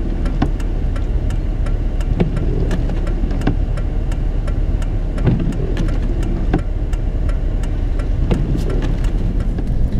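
Steady low engine rumble of a vehicle, heard from inside the cab, with frequent short sharp clicks and knocks throughout.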